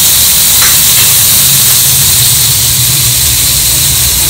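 Chopped okra sizzling as it fries in oil in a stainless steel kadai: a steady hiss with a low hum underneath.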